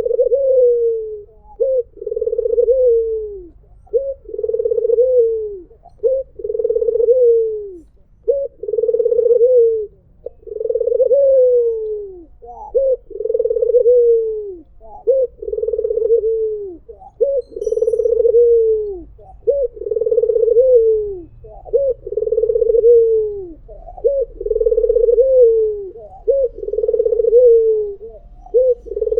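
White (albino) ringneck dove, the Indonesian puter, cooing over and over at about one coo every two seconds. Each coo is a short note followed by a longer one that falls in pitch at the end.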